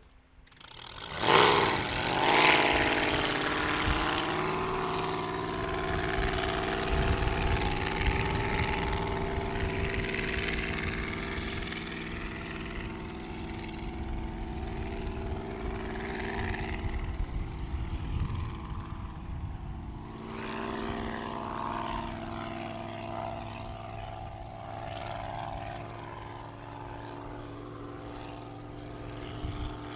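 Two-stroke BNR engine of a gas-powered radio-controlled model hydroplane running at high revs. It is loudest as the boat passes close about two seconds in, with its pitch dropping, then runs steadily farther off, rising and falling as it laps.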